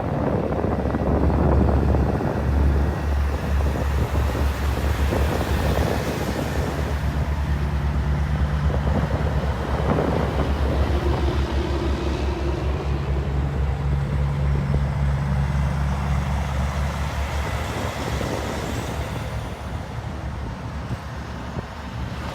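Diesel semi-truck engines running as big rigs roll slowly past, a steady low throb that fades in the last few seconds.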